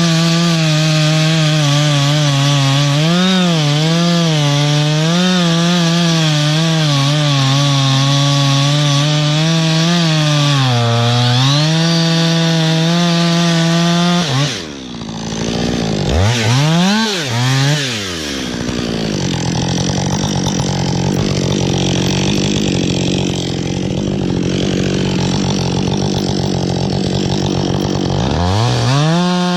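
Two-stroke chainsaw at full throttle cutting into a tree trunk, its engine pitch wavering as the chain bogs under load. About halfway through it drops off and is blipped twice, then runs lower and rougher before revving back up near the end.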